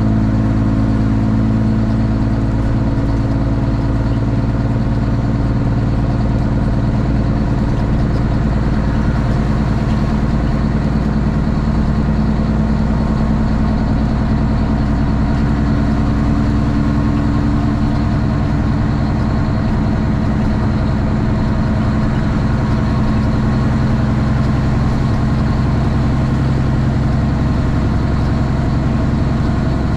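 Straight-piped Cummins ISX inline-six diesel of a Kenworth T800 semi truck running steadily, heard from the cab as a loud, even drone with small shifts in pitch partway through.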